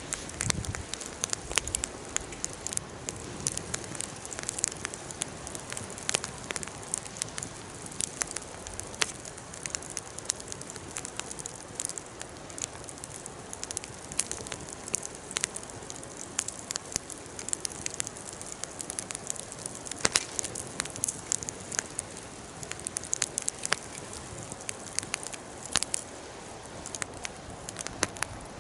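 Wood fire burning, a steady hiss with frequent sharp crackles and pops.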